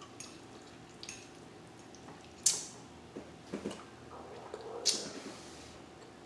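Close-miked eating sounds: wet chewing and mouth smacks, with a few short sharp clicks, the loudest about two and a half and five seconds in.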